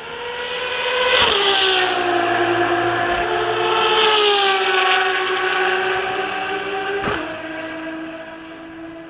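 Ferrari race car engine at high revs on the track, with a sharp upshift about a second in and another about seven seconds in. It is loudest in the middle and fades toward the end, as the car goes past and away.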